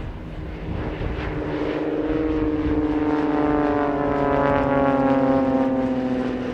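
Propeller-driven aerobatic aircraft flying past with a steady engine-and-propeller drone. It grows louder, then falls in pitch as the aircraft goes by.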